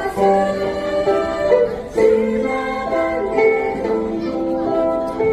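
Ukulele ensemble playing a song, plucked chords and melody notes changing every beat or so.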